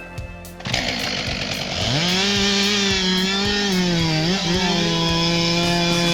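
Two-stroke chainsaw revving up to full throttle about two seconds in, then running steadily at high pitch. The engine note dips briefly near four seconds as the chain loads in the cut.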